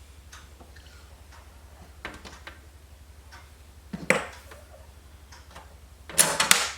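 Small metallic clicks and taps of case screws and a screwdriver against a steel PC case side panel, the screws failing to go in, with a louder clatter about four seconds in and a longer louder scraping rattle near the end. A steady low hum runs underneath.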